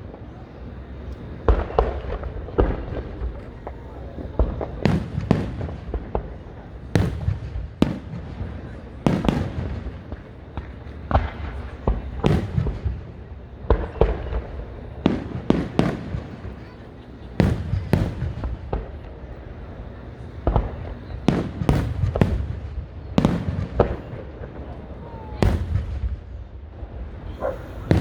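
Aerial fireworks display: shells bursting one after another, a sharp bang about every second, sometimes two close together, over a steady low rumble.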